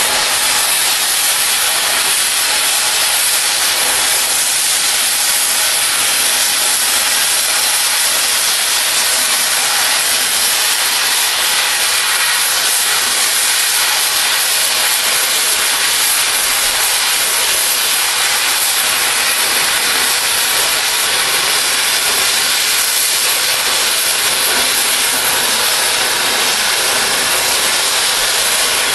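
Oxy-fuel cutting torch hissing steadily as it flame-cuts through steel railroad rail.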